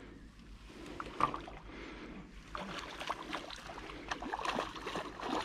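Water lapping against a small fishing boat's hull, with scattered small knocks and clatter. A sharper knock comes about a second in, and the clicks grow busier in the second half.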